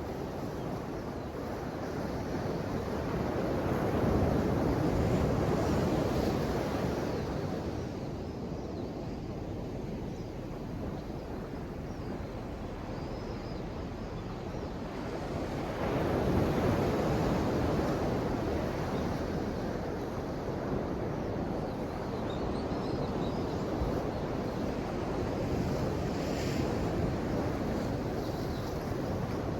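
Ocean waves breaking and washing ashore, with two larger waves swelling up about twelve seconds apart and a steady wash between.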